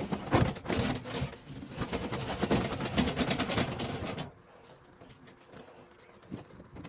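Rapid rustling and crackling as clumped dryer lint is worked out of a clogged dryer vent, dropping to faint scattered clicks about four seconds in.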